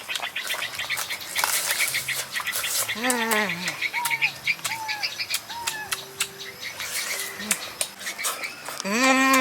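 Birds chirping over a run of sharp clicks, with two short, falling vocal sounds: one about three seconds in and one near the end.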